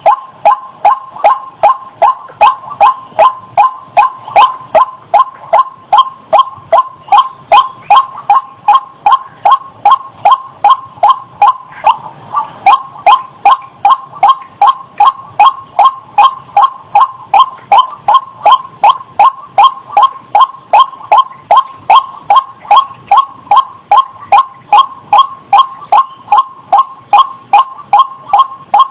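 White-breasted waterhen (ruak-ruak) giving its monotonous call, a short note repeated evenly about two and a half times a second without a break. It is played as a lure call for trapping the bird.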